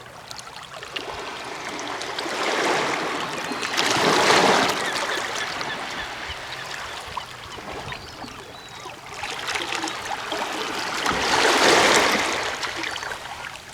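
Small ocean waves washing in over shoreline rocks: two slow swells of rushing water, the first about four seconds in and the second some seven seconds later, with a softer wash between.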